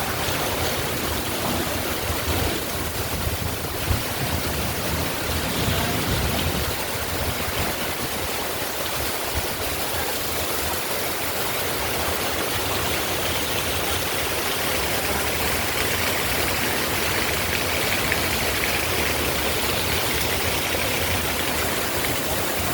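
Strong wind with rain: a steady rushing noise, with a deep uneven rumble as the gusts hit the microphone.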